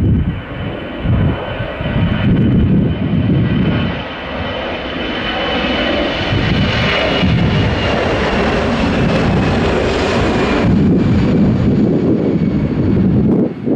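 Airbus A320's twin CFM56-5B turbofan engines at takeoff power: a loud jet roar with a high whine that slowly falls in pitch as the aircraft passes, over a low rumble that swells and dips.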